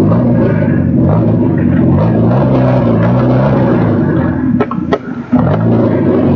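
Rally car engine revving hard, its pitch climbing and dropping as the driver works through the gears. Near the end the engine note dips briefly, with a few sharp cracks.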